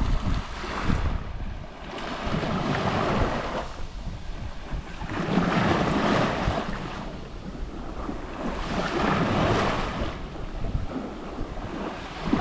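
Small sea waves lapping on a shore: three gentle washes, each swelling and ebbing over a couple of seconds, about three seconds apart.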